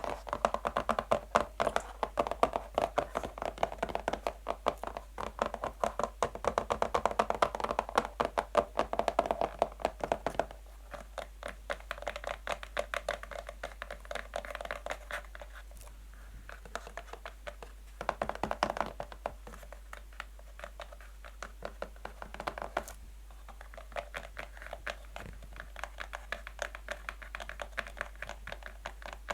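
Natural fingernails tapping fast on a box, a dense stream of light hollow clicks. The tapping is loudest for the first third, then softer, with a short louder spell about two-thirds of the way through.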